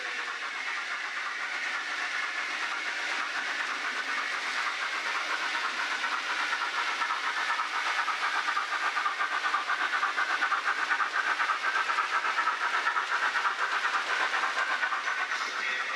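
Model railway train running along the track: a steady whirring with a fast, even clicking ripple that grows a little louder toward the middle and holds there.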